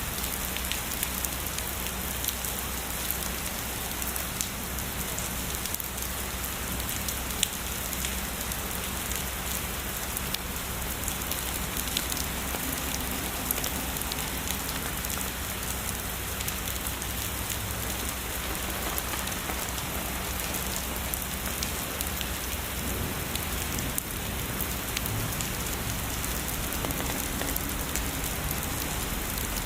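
Heavy rain falling steadily, a constant hiss dotted with many sharp, crisp drop hits.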